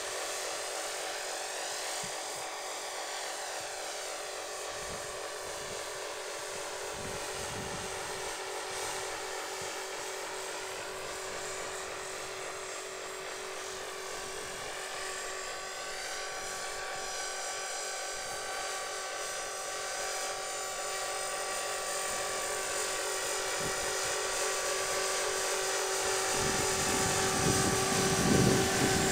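Align 450 Sport electric RC helicopter in flight: the high whine of its motor and rotor holds steady while its pitch swings slowly up and down as it manoeuvres, with some low rumbling near the end.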